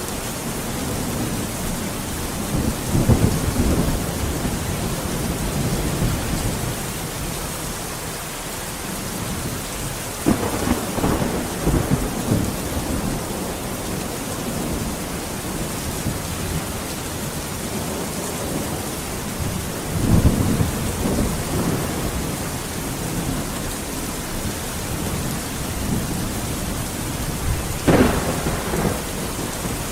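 Steady rain falling, with four rolls of thunder, spaced roughly eight to ten seconds apart, each rumbling for a couple of seconds. Two of them, about ten seconds in and near the end, begin with a sharp crack.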